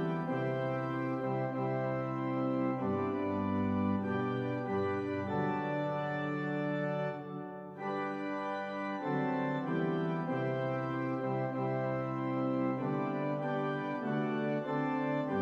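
Organ music: slow, held chords that change every second or two, with a brief lull about seven seconds in.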